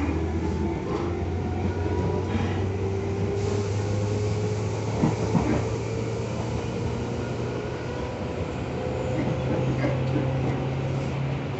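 Tobu 10000 series electric train running, heard on board: a steady traction-motor hum with a whine that slowly rises in pitch, over rolling wheel and rail noise. A few sharp clacks come about five seconds in.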